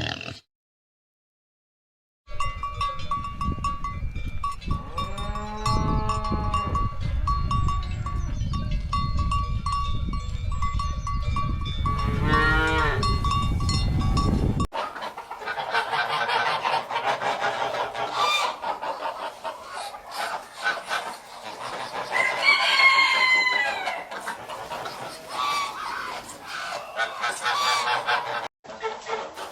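A cow mooing in long, drawn-out calls over a low rumble. The sound then changes abruptly to a flock of chickens clucking and calling, with louder calls about two-thirds of the way through.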